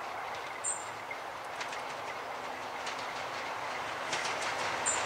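Diesel-hauled passenger train approaching along the track: a steady rumble that grows louder, with wheel clicks over the rail joints every second or so.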